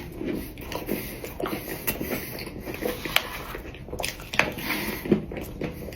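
A person biting into and chewing a Crumbl peanut butter pie cookie close to the microphone: irregular small crunches and wet mouth sounds.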